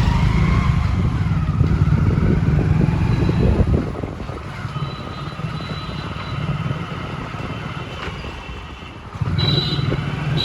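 Road traffic heard from a moving vehicle: a steady low engine and road rumble that eases off about four seconds in and swells again near the end.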